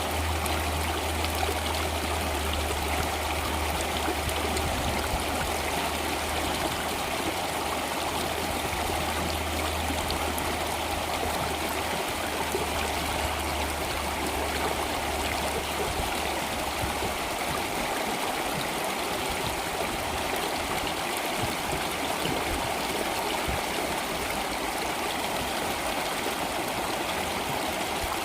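Flowing stream water, a steady even rush, with a low hum underneath that stops a little past halfway.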